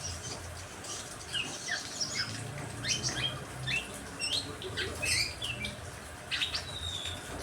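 Several songbirds chirping in quick, short notes that slide up and down, over a steady hiss of rain.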